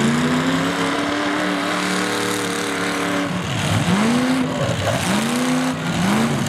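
Demolition derby car's engine revving: the pitch climbs and is held high for about three seconds, then it is revved up and let back down three times in quick succession.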